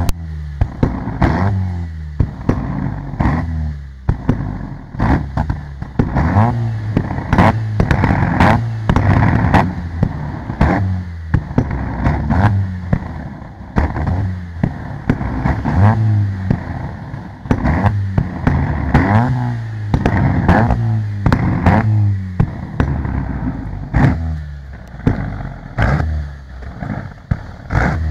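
Proton Iswara's four-cylinder engine revved again and again in short blips, with loud bangs and pops from the exhaust as the N-gen 2 flame exhaust kit ignites fuel in the tailpipe to shoot flames.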